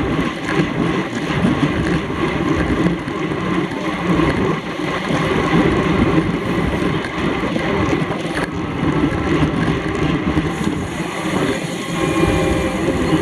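Steady rush of wind over a bicycle racer's camera microphone at race speed.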